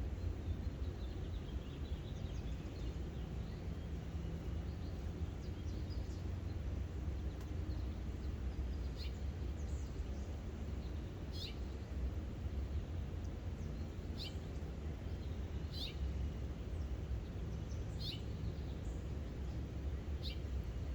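A bird calling with short, sharp, high chirps, one about every two seconds in the second half, with fainter twittering early on, over a steady low background rumble.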